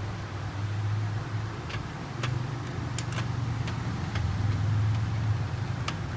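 Small sharp clicks and taps, about seven spread unevenly, of plastic and metal printer parts being handled and fitted, over a steady low background hum.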